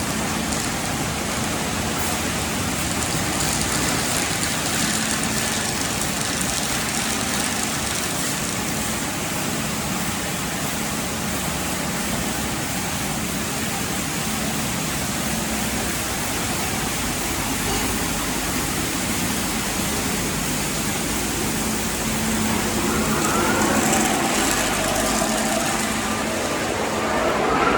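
Tunnel car wash equipment running: a steady hiss of spraying water and machinery over a constant low hum, with a rising whine about three-quarters of the way through.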